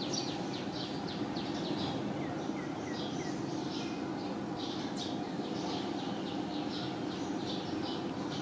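Small birds chirping in quick, repeated high notes over a steady low background noise.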